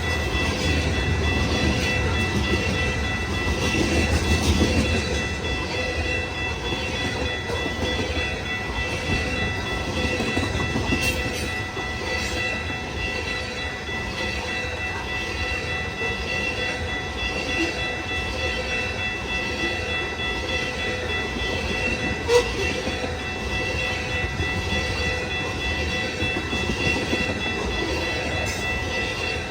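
A freight train of loaded tank cars rolling past: wheels clacking and rumbling on the rails, with a steady high-pitched ringing over it. A single sharp click sounds about 22 seconds in.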